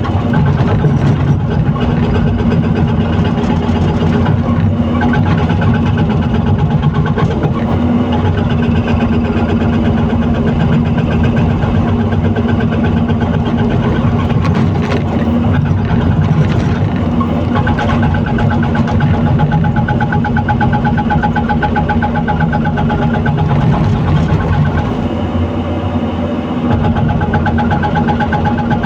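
Heavy diesel engine of an excavator running steadily with a deep, even hum. A higher whine joins about two-thirds of the way in, and the engine eases off briefly near the end.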